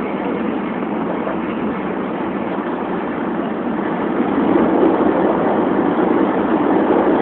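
Steady running noise of a Shinkansen bullet train heard from inside the passenger cabin, growing a little louder about four seconds in.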